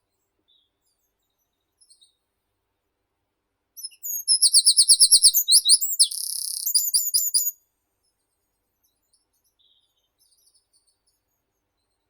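A songbird sings one loud phrase of about three and a half seconds: a fast run of repeated high notes, a short buzzy note, then a few quick notes to finish. Faint chirps from other birds come before and after it.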